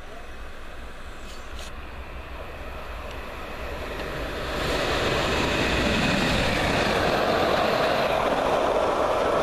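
Train hauled by an electric locomotive approaching and passing through a station without stopping: a rushing rumble of wheels on rails that builds and becomes loud and steady about halfway through.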